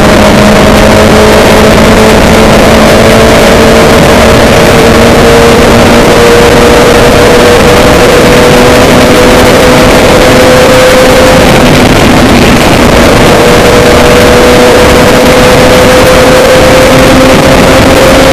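Moving vehicle, heard as a loud, steady rumble and hiss with a drone that rises slowly in pitch throughout, as if gathering speed.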